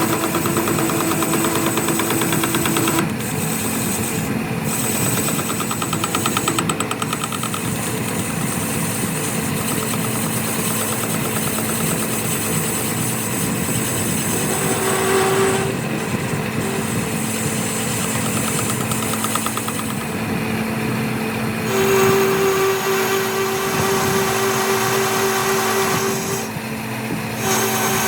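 Workshop machinery and power tools running steadily, with their steady hums and whines changing abruptly several times as one machining clip follows another.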